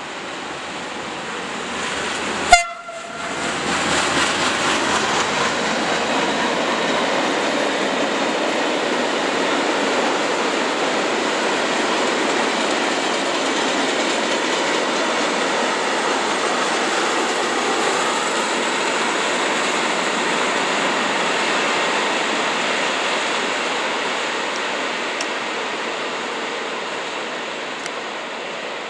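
Train passing close by at speed: a sharp crack about two and a half seconds in, then a loud, steady rush of wheels and cars for about twenty seconds that fades away near the end.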